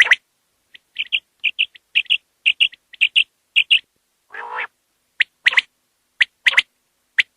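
Common quail calling: a run of short, sharp, high notes repeated in quick pairs, with one lower, rougher call a little past halfway.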